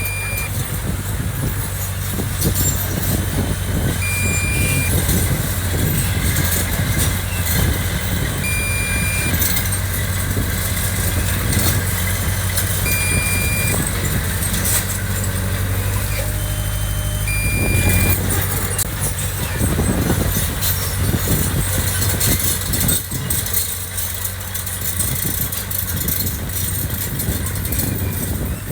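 Diesel engine of heavy earthmoving machinery running steadily, with metallic clanking and rattling throughout. A short, high warning beep sounds about every four seconds.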